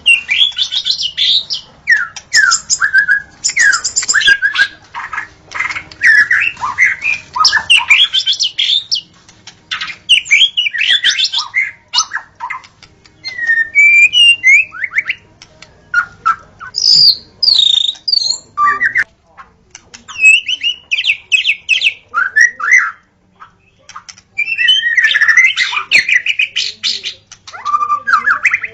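White-rumped shama (murai batu) singing: rapid, varied phrases of clear whistles and sliding notes mixed with harsh, scratchy chatter, in bursts with short pauses between them.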